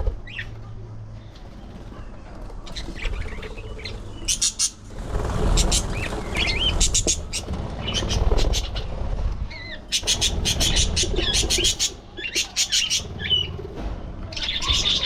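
Budgies chirping and chattering in quick rattling bursts with short squawks, mixed with bouts of wing flapping.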